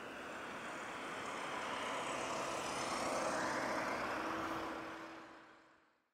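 Jet engine noise from an Airbus A380's four Engine Alliance GP7200 turbofans, a steady rush that swells with a shifting, sweeping tone as the aircraft moves past, then fades out to silence near the end.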